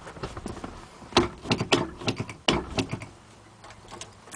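A run of sharp clicks and knocks from handling keys and the pickup truck's cab before starting, loudest between about one and three seconds in.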